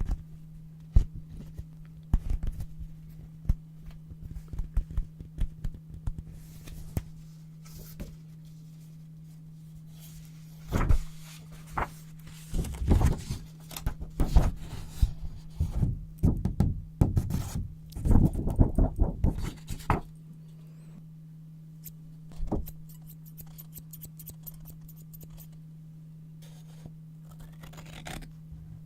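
Paper being handled and cut with scissors: scattered light taps and snips, then several bursts of crinkling and rustling in the middle, over a steady low hum.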